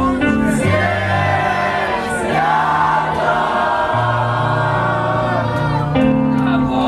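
A rock band playing live with sung vocals over a bass line that steps between held notes.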